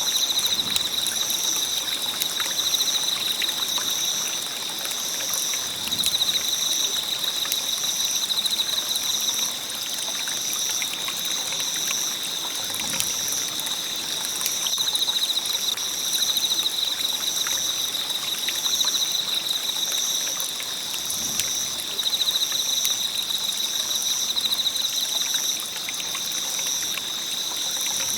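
Wood fire crackling, with scattered sharp pops. Insects chirp steadily under it: one continuous high trill, and a higher chirp pulsing about once a second.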